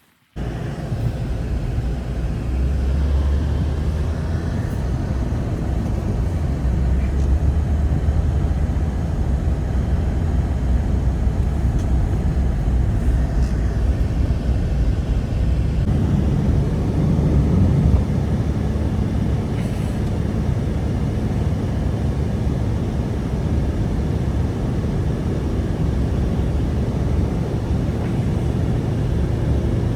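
Strong blizzard wind blowing steadily, a deep rumbling rush that starts abruptly.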